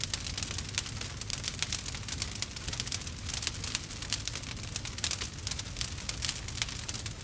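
Campfire crackling: a dense, irregular stream of small pops and snaps over a steady low rumble of the flames.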